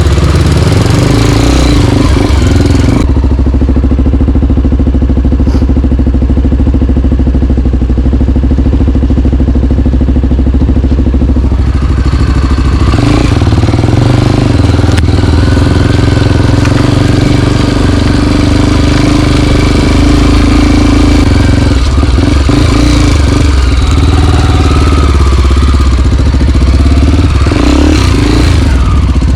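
Single-cylinder dirt bike engine running loud and close while riding at fairly steady revs. About three seconds in, the high hiss drops away for several seconds, then comes back.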